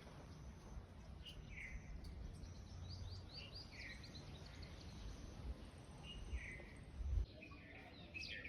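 Small birds chirping in short scattered calls, including a quick run of chirps about three seconds in, over a steady low rumble with a brief louder thump near the end.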